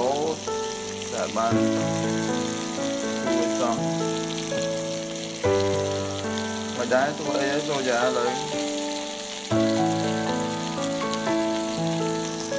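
Chicken and onion sizzling as they fry, a steady hiss throughout. Background music of held notes plays over it, its chords changing every few seconds, with a wavering melodic line about seven seconds in.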